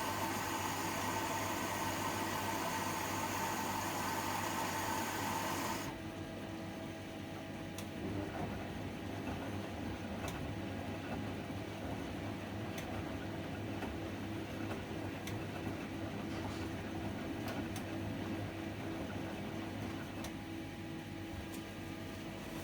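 Privileg 804 washing machine running with a steady hum; a loud hiss over it stops abruptly about six seconds in, leaving the quieter hum with faint ticks.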